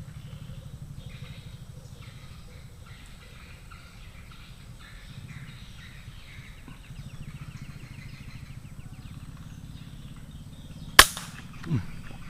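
A single sharp shot from a PCP air rifle about eleven seconds in, followed within a second by a short falling tone. Before the shot there is only a low outdoor background with faint chirps.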